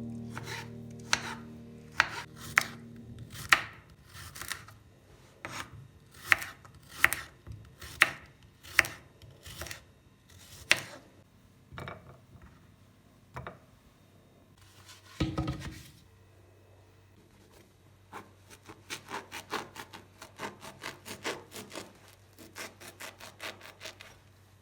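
Knife chopping on a cutting board: slow, even cuts about once every 0.7 seconds, a short rustling clatter about 15 seconds in, then a quicker run of lighter cuts near the end. Background music fades out in the first few seconds.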